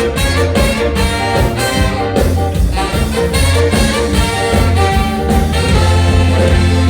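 Ska band playing live: a horn section carries the melody over a heavy bass line and a steady drum beat.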